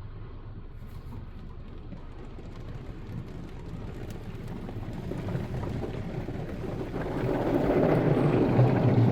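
Touchless car wash spray jets pelting water onto the car body, a steady hiss that grows louder from about halfway in.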